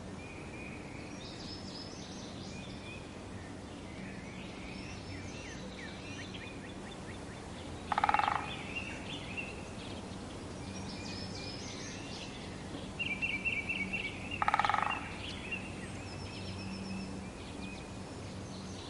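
Wild birds calling: scattered high chirps and short trills throughout, with two louder, harsher calls about eight seconds in and again about fourteen and a half seconds in, the second just after a quick run of repeated notes.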